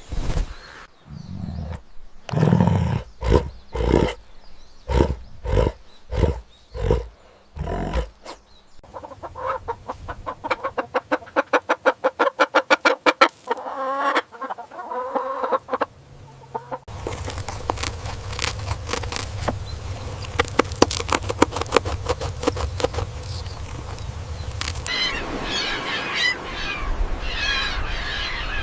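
Domestic chickens clucking and calling in a string of changing bursts: spaced single clucks at first, then a fast run of calls, then a dense clicking stretch, and high chirping near the end.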